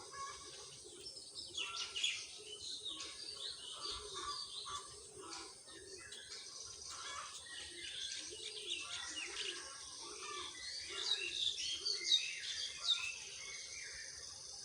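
Small birds chirping and twittering, many short calls overlapping throughout.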